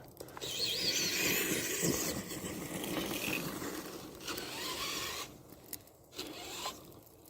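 Tamiya TXT-2 RC monster truck driving, its twin electric motors whining up and down in pitch over a rough scraping, rattling noise from the drivetrain and tyres. The noise is loudest for the first four seconds and eases off after that. The transmission gears are worn.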